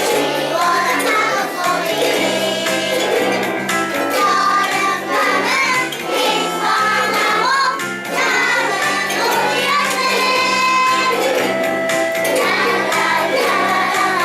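A group of young children singing a song together with ukulele and instrumental accompaniment.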